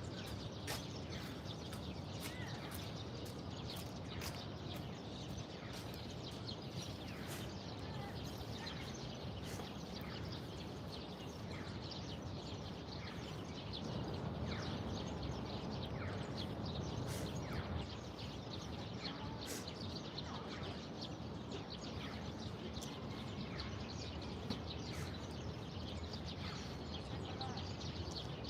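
Small birds chirping, with many short, high calls scattered throughout, over a steady low rumble of background noise that swells slightly about halfway through.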